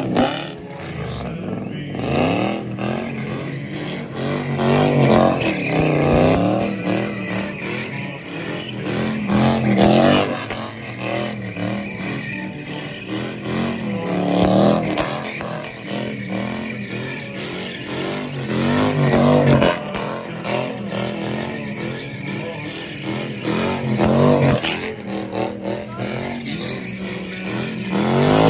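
A 3UZ V8 in a sedan revving hard over and over while the car does donuts, its pitch rising and falling about every four to five seconds as the rear tyres spin on the asphalt.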